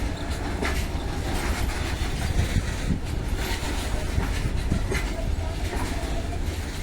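Coal-loaded BOBRN bottom-release hopper wagons of a goods train rolling past: a steady rumble of steel wheels on the rails, with occasional short clacks.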